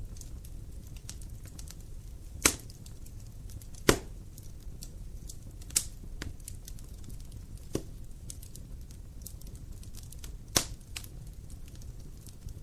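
Wood fire crackling: a low steady rumble of burning under scattered snaps and pops, with a few louder sharp pops about two and a half, four and ten and a half seconds in.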